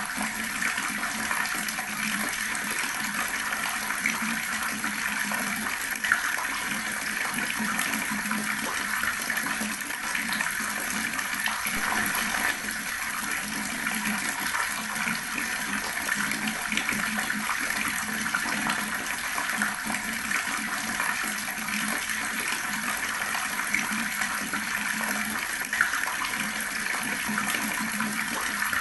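Water running steadily from a tap, a continuous splashing stream with small irregular spatters.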